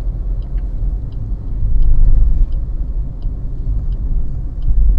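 Inside a moving car: a steady low rumble of engine and road, with the turn indicator ticking at an even pace, about three ticks every two seconds, as the car signals for a turn.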